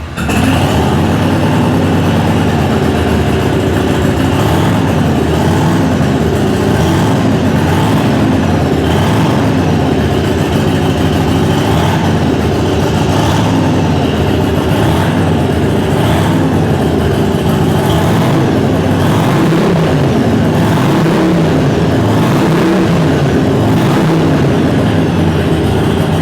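Harley-Davidson Sportster Superlow's air-cooled V-twin running loud through a Cobra straight-through exhaust, just after start-up. It idles steadily, and its pitch rises and falls a few times in the second half as the engine is revved.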